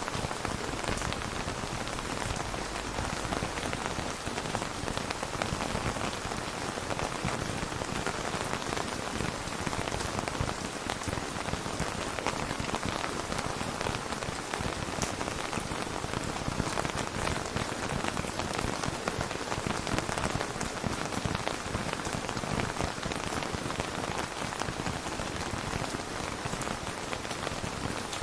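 Steady rain: an even hiss dotted with many small drop ticks, holding level throughout, with no thunder.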